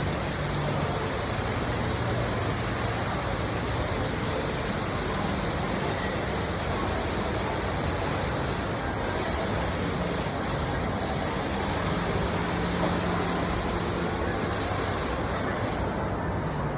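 Alangkarn indoor waterfall: a steady rush of water falling 15 metres into its pool. Its hiss dulls just before the end.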